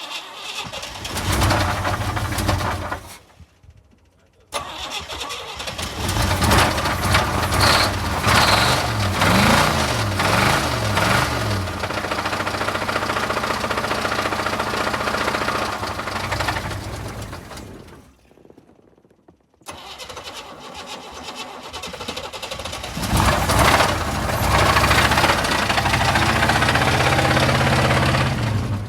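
Blown car engine with a rod knock being started and run, revving up and down about ten seconds in. The engine sound stops twice for a second or two and then returns.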